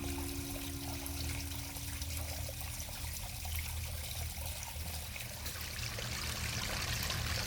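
Water trickling in a small garden stream, with a low rumble underneath. A held note of background music fades out in the first few seconds.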